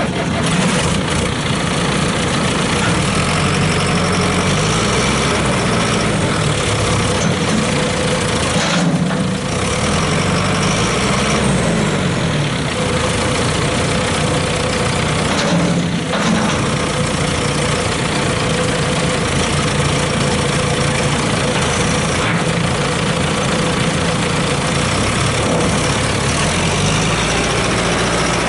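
John Deere 6430 tractor's diesel engine running steadily at idle, its engine speed rising and falling a little several times.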